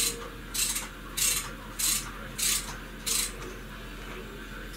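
Small metal engine parts being handled and fitted during carburettor assembly: about six short metallic scrapes or clicks at an even pace, stopping about two-thirds of the way through.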